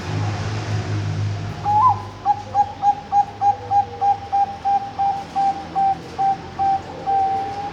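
A zebra dove (Bangkok-bred perkutut) singing: an opening note about one and a half seconds in, then a quick run of short, even coos at about three a second, ending in one longer held coo. A low hum sits under the first two seconds.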